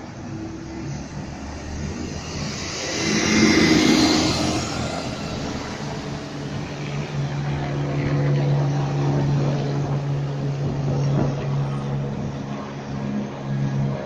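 Street traffic: a vehicle passes close by, loudest about four seconds in, then a steady low motor hum carries on.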